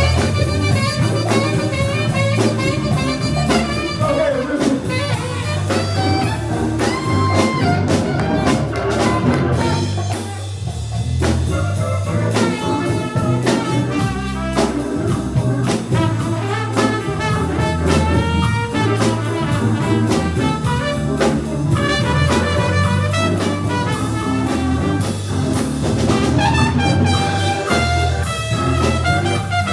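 A band playing instrumental jazz, a melody line over bass and drums.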